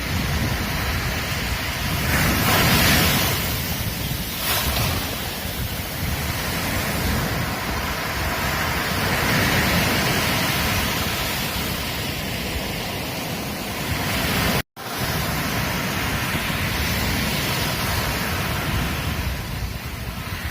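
Ocean surf on a beach: waves breaking and washing in as a steady rush that swells and ebbs, loudest about two to three seconds in. The sound cuts out for an instant about two-thirds of the way through.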